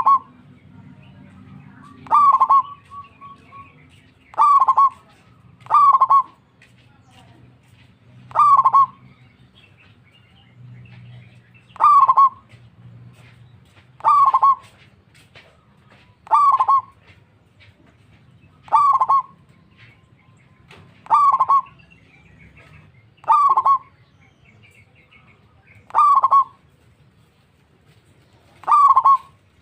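Zebra dove giving short single calls, each well under a second, repeated every two to three seconds, with a faint low hum underneath.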